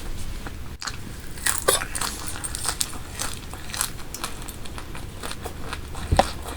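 Close-miked mukbang eating: a person biting and chewing food, with frequent crisp crunches and clicks. There are two short falling squeaks, one about one and a half seconds in and one near the end.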